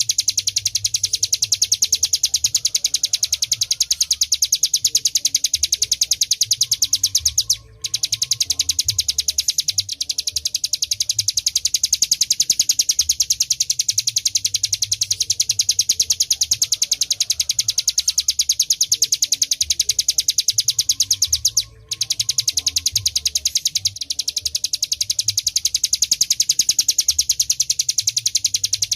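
Ciblek gunung, a prinia, singing nonstop in a very fast, high-pitched rattling trill, the continuous 'ngebren' song. It breaks off for a split second twice.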